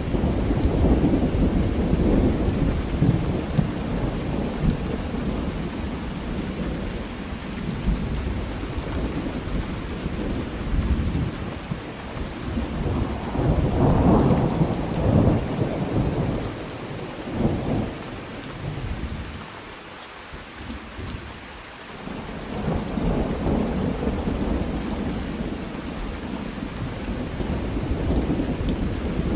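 Thunderstorm: steady rain with rolling thunder rumbling low, swelling to its loudest about halfway through, easing off briefly, then rolling in again.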